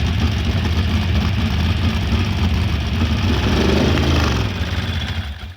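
Race engine idling steadily and loudly, with a brief rise in pitch about three and a half seconds in, then dying away near the end.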